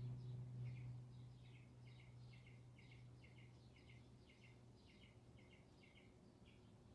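Near silence: faint, quick chirps, like a small bird calling about three times a second, over a low steady electrical hum that fades away during the first second or so.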